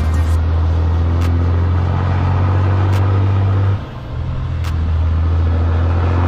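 Heavy-haul semi truck's diesel engine droning steadily under load. About four seconds in, the drone drops away briefly and builds back up, as in a gear shift. A few sharp clicks sound over it.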